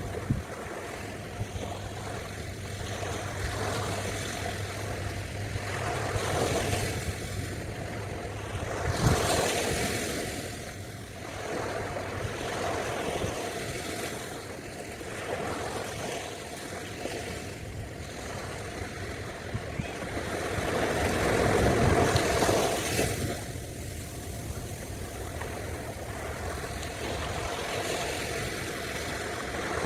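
Ocean surf washing on a beach, swelling and fading in slow surges, loudest about a third of the way in and again past two thirds, with a steady low hum underneath.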